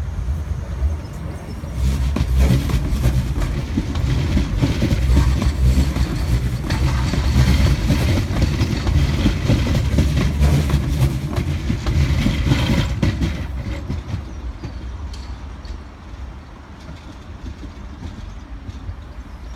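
Class 399 Citylink tram-train running on street track, a rumble of wheels on rail. It grows louder about two seconds in, holds, then dies down at about thirteen seconds.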